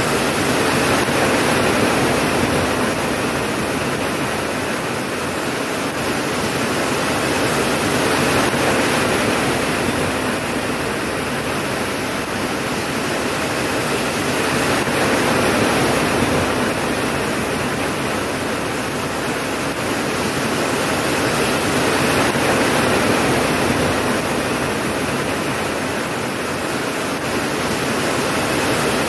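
Steady heavy rain, a dense even hiss that swells and eases slowly every several seconds, with no thunder.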